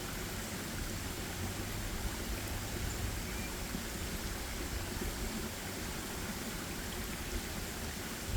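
Steady, even rushing noise of outdoor forest ambience, with a low rumble underneath.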